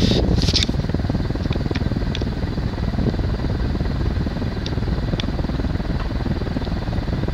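Fasco Vanity Fair ceiling fan with four walnut blades running on high speed: a steady low rush of air from the blades, with a quiet motor that has no hum, and a few faint ticks.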